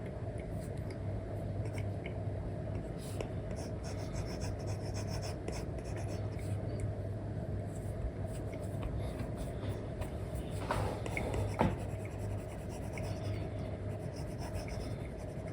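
Apple Pencil stylus with an Elecom nib drawing on an iPad with a paper-like matte screen film: a run of scratchy strokes and light taps over a steady low hum. A louder pair of strokes comes about eleven seconds in.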